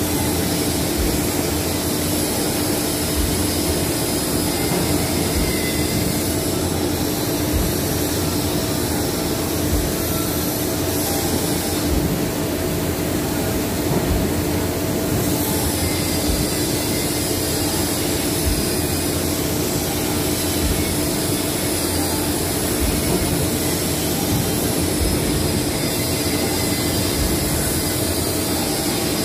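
Industrial machinery running steadily: a constant hum with a strong steady tone, a high wavering whine above it, and scattered low knocks.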